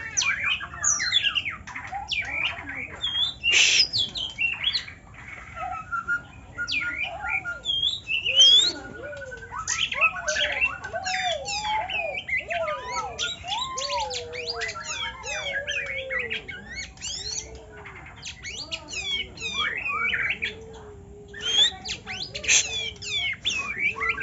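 White-rumped shama and oriental magpie-robin singing: a dense run of rapid, varied whistled phrases, sweeping up and down in pitch, mixed with harsh notes. From about a third of the way in, a lower, wavering warble runs beneath the song.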